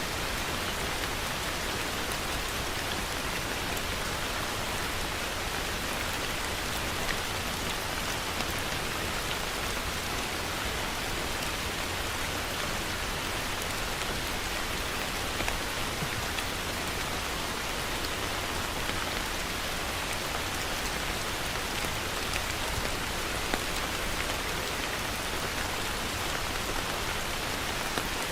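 Heavy rain falling in a steady, even hiss, with a few sharper drop hits standing out now and then.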